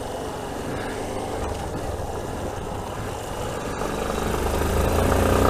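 Yamaha Ténéré 250 single-cylinder motorcycle engine running, growing steadily louder over the last couple of seconds as the bike gets under way, with wind noise building.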